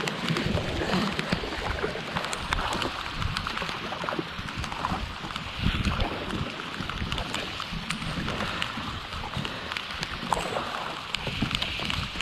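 Heavy rain falling on lake water and on a kayak: a steady hiss dotted with countless drop ticks, with uneven low rumble from wind on the microphone.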